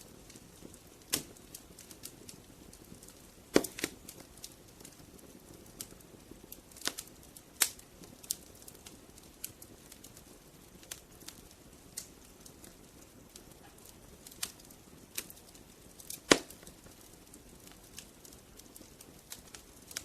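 Wood fire crackling: sharp pops and snaps at irregular intervals, a few louder ones standing out, over a faint low hiss of burning.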